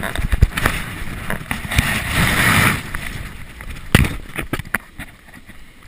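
Muffled knocks and rustling of a GoPro in its waterproof housing being handled, with a hissing swell about two seconds in.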